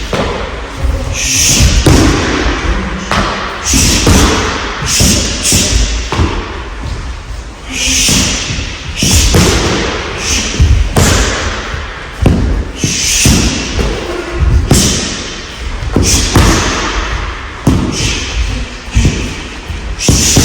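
Punches and kicks landing on a rolled-up mat held as a striking target: a long run of heavy thuds in irregular clusters, often two or three in quick succession.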